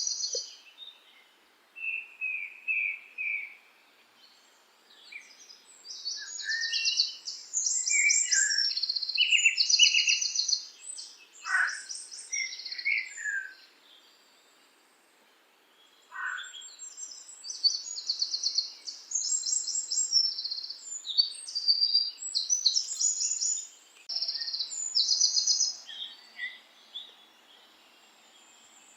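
Songbirds singing: phrases of high chirps and fast trills, with short quiet pauses between them, over a faint steady background hush.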